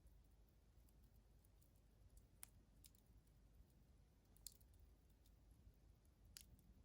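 Faint, sparse crackling of a wood campfire burning down toward embers: scattered small clicks and a few sharper pops.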